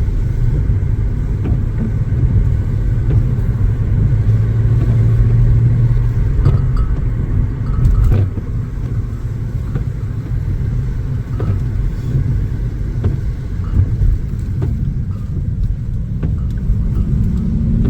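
Car being driven on the road: a steady low rumble of engine and tyre noise, with a few light knocks.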